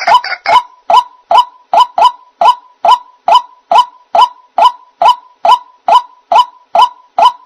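White-breasted waterhen (ruak-ruak) calling a short, downward-gliding note over and over in a steady, even rhythm, about two and a half calls a second, played as a bird-trapping lure call.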